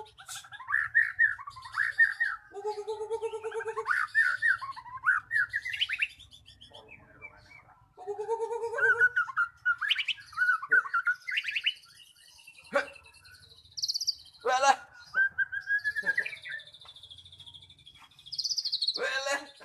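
White-rumped shama (murai batu) singing in phrases: three times a low, steady whistle breaks into a run of quick, rising notes, and high thin whistled slides come near the end.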